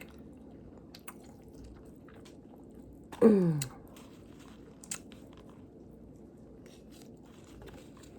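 A person chewing fruit with the mouth close to the microphone: soft, wet mouth clicks, with a short voice sound falling in pitch a little past three seconds in.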